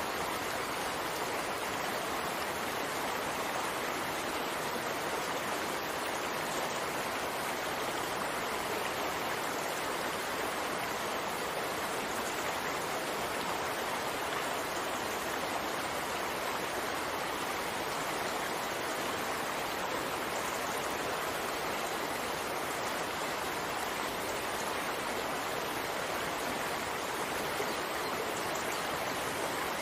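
Steady rain, an even rushing hiss with no breaks or changes.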